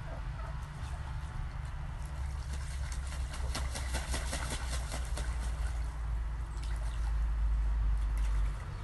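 Water trickling and splashing, with a cluster of small splashes a few seconds in. Over it runs a low wind rumble on the microphone that grows near the end and drops away suddenly just before the end.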